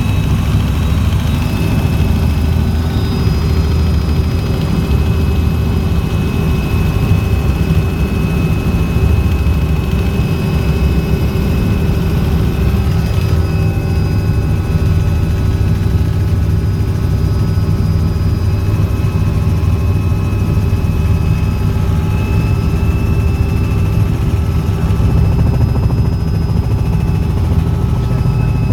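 Helicopter in flight: a loud, steady drone of engine and rotor with constant high whine tones over it.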